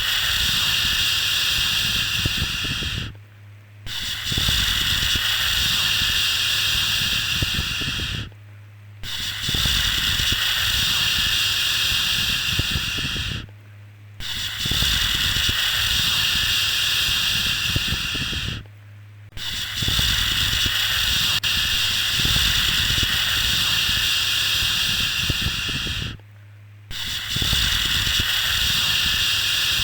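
Long, repeated 'shhh' shushing sounds, each held for four to seven seconds with a brief pause between, about six in all, to soothe a baby to sleep. A steady low hum runs underneath, through the pauses too.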